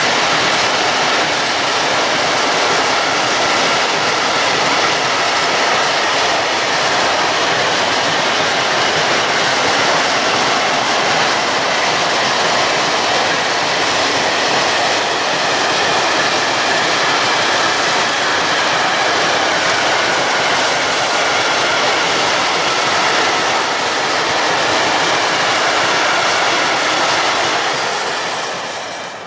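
Freight train of open coal wagons rolling past at close range, a steady rumble and clatter of wheels on the rails. It fades near the end as the last wagons go by.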